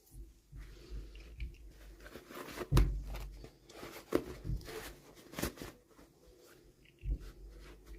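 Hands handling and unwrapping toy packaging: irregular crinkling and crackling, with sharp clicks and low thumps close to the microphone. The loudest crackles come about three, four and five and a half seconds in.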